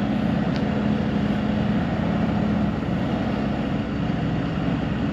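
Large diesel engine of tree-removal equipment running steadily with an even hum.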